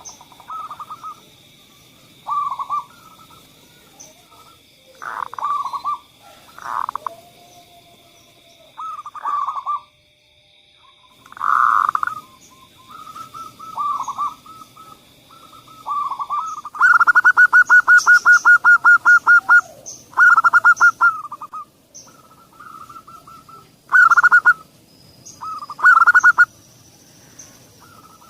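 Zebra doves cooing: short rolling coo phrases every second or two, with a long run of rapid staccato notes in the middle. It is a lure recording, played to coax reluctant captive doves into singing.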